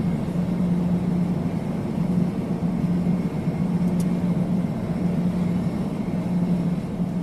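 Airplane engine drone, steady and unbroken, with a strong low hum.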